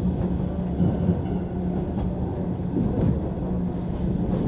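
JR East 185 series electric multiple unit running, heard from inside the passenger car: a steady hum over a continuous rumble of running noise.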